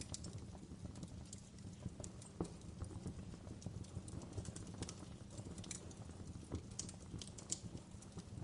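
Wood fire in a fireplace crackling: irregular sharp pops and snaps, a few louder ones scattered through, over a steady low rumble of the burning.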